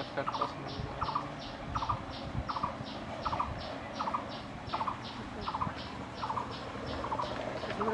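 A bird calling over and over at an even pace: a short rattling low note and a sharp higher note, repeating about three times every two seconds.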